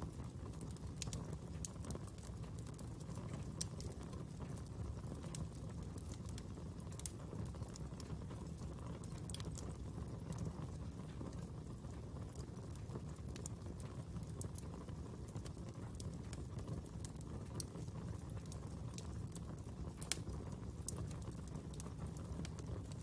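Fire crackling: a steady low rush of burning with irregular sharp pops and crackles scattered throughout, one louder pop about twenty seconds in.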